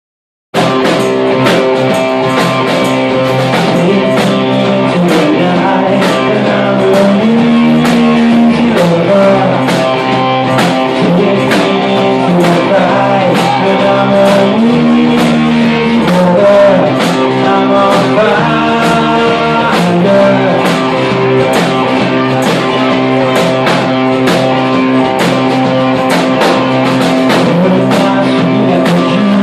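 Rock band playing a song, led by guitar with a steady beat, starting abruptly about half a second in.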